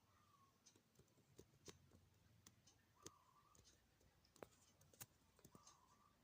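Near silence with faint, scattered clicks and light scratching sounds.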